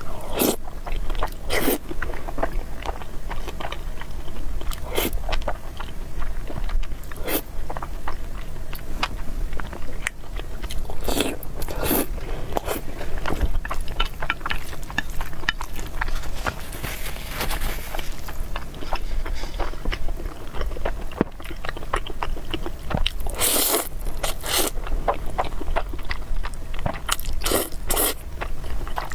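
Close-miked mukbang eating sounds of spicy noodles and meatballs: irregular chewing, biting and wet mouth noises, with sharp clicks and a few longer noisy smears that fit slurps, over a steady low hum.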